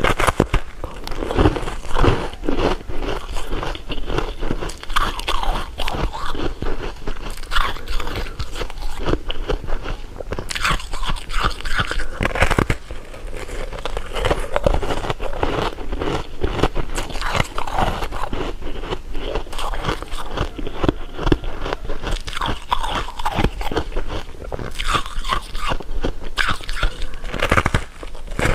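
Close-up eating sounds: a person biting and chewing candy, with continuous crunching.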